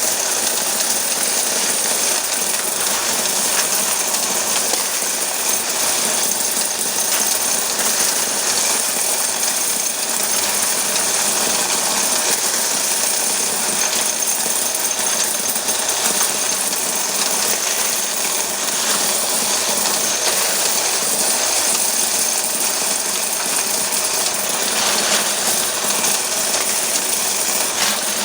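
Electric coin counter running through a large batch of quarters: a steady, dense rattle of coins pouring through the machine.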